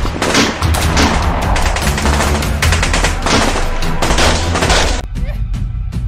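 Rapid automatic gunfire sound effects, a continuous rattle of shots laid over background music with a steady bass. The shots stop about five seconds in, leaving only the music.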